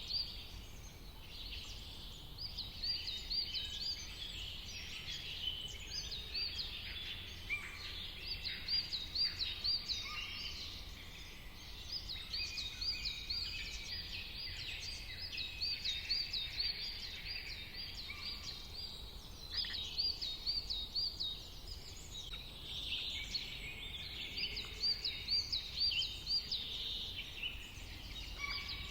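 Several songbirds singing together in a dawn-chorus-like mix, with quick runs of repeated high notes, overlapping calls, and a quieter spell about halfway through. A steady low rumble runs underneath.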